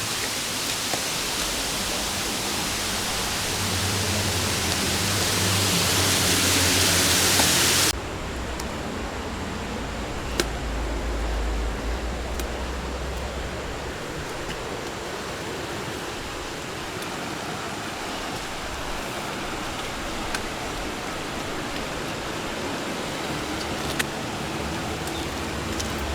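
Waterfall rushing: a steady, full noise of falling water, loudest for about the first eight seconds, then cutting suddenly to a softer rush.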